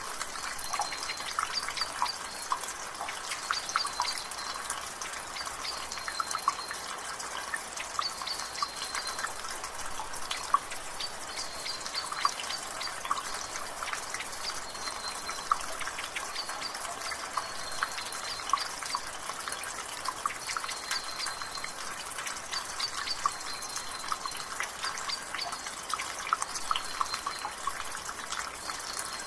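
Water dripping from a rain gutter: irregular drips and splashes over the steady hiss of light rain, with a bird's short high chirp repeating every couple of seconds.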